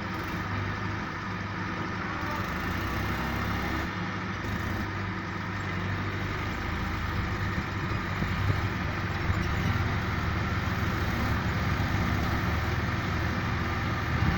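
Heavy diesel engine running steadily, getting a little louder about halfway through, as a loaded tractor is worked free with a JCB.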